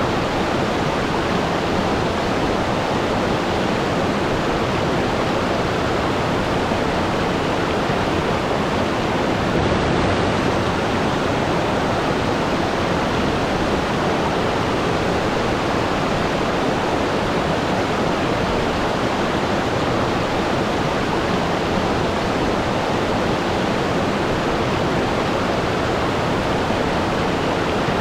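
Waterfall: water falling and crashing steadily into a pool, a dense, even rushing without any change.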